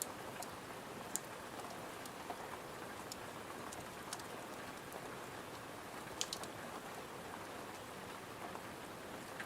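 Steady rain hiss on a window, with scattered sharp crackles and pops from a wood fire, a quick cluster of them about six seconds in.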